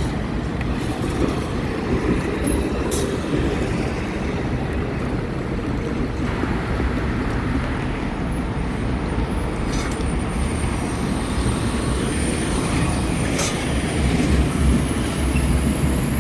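Steady rumble of wind and road noise while riding a bicycle, with traffic around and a few faint clicks.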